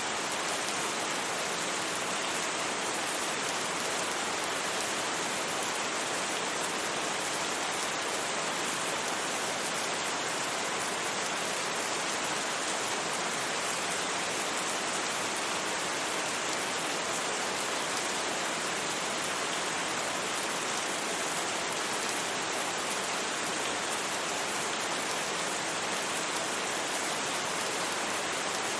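Steady, even rain hiss with no thunder and no distinct drops standing out, blended with a white-noise-like wash.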